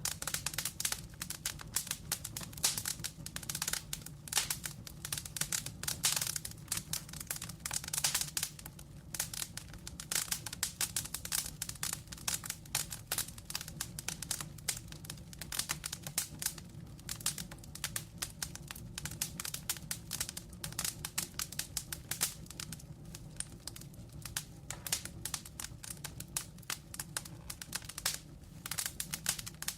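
Burning logs crackling, with dense, irregular pops and snaps over a steady low rumble of flame.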